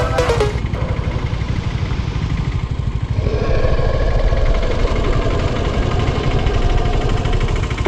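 Motorcycle engine running, its pitch rising about three seconds in as it is revved, then holding steady.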